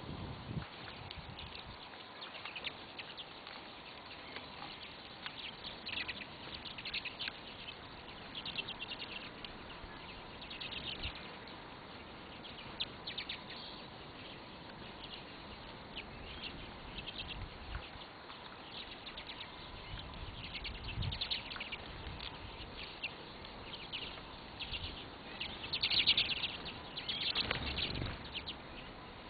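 Small wild birds chirping in short, repeated calls, with a louder cluster of chirps near the end.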